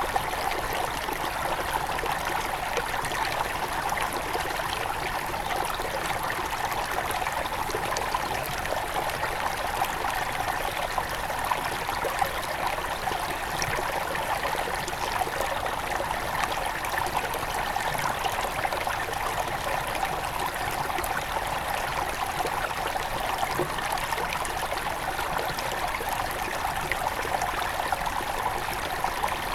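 A small mountain stream running and trickling over rocks: a steady babble of water with little splashes throughout.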